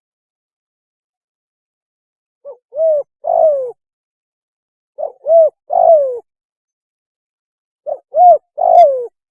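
Spotted dove calling: three phrases about two and a half seconds apart, each a short note followed by two longer coos, the last one sliding down in pitch. This is the three-note call of the spotted dove, given here as its mating call.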